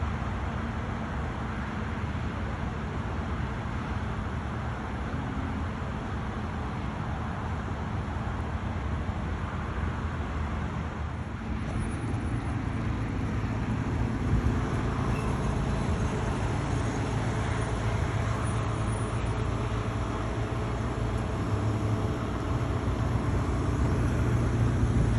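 Steady outdoor vehicle and traffic noise with a low engine hum underneath, getting a little louder about halfway through.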